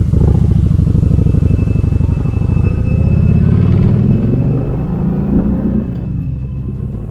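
Kawasaki Vulcan 1700 V-twin motorcycle engine running under way, its pitch rising as it accelerates about halfway through, then fading about six seconds in.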